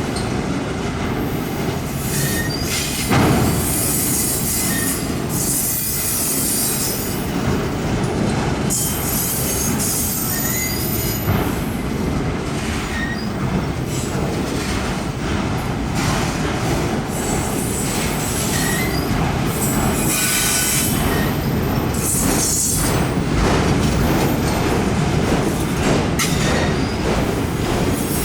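Freight cars of a CPKC mixed freight train rolling past: a steady rumble of steel wheels on rail, with repeated stretches of high-pitched wheel squeal and a single loud clank about three seconds in.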